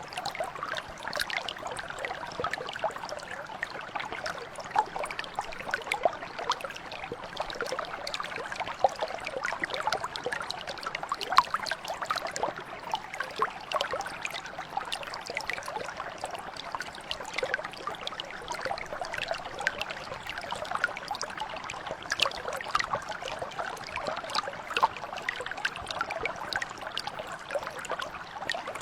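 Shallow stream water flowing and trickling, a steady babble with many small splashes and gurgles.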